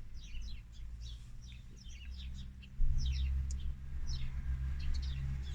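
Small birds chirping in many short, high, descending calls, over a low steady hum that grows louder about three seconds in.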